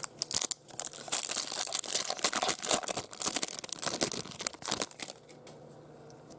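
Foil wrapper of a baseball card pack being torn open and crinkled in the hands, a dense crackling that stops about five seconds in.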